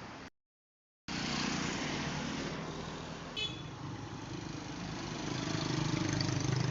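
Motor vehicle engine running amid road and traffic noise. It is broken by a sudden drop to dead silence for under a second near the start, then resumes, with a brief high beep about three seconds in.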